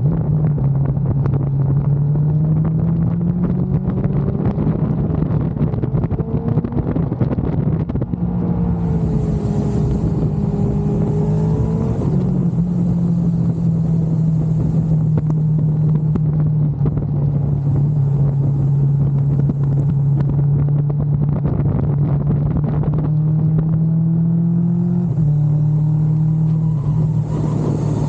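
Kawasaki GTR 1400's inline-four engine running steadily under way, with wind rush. Its pitch holds fairly even and drops suddenly twice, about twelve seconds in and again near twenty-five seconds.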